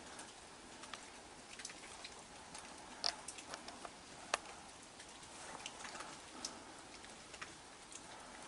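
Light rain falling, with a faint steady hiss and scattered, irregular drips and ticks; the sharpest tick comes a little past four seconds in.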